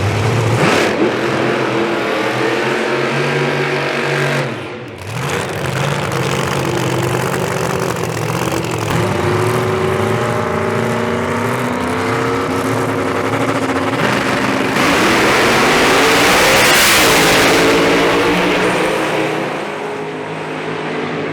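Drag race car engines running and revving, getting loudest about three-quarters of the way through.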